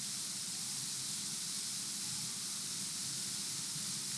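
Steady background hiss of the recording's noise floor, with a faint low hum underneath and nothing else.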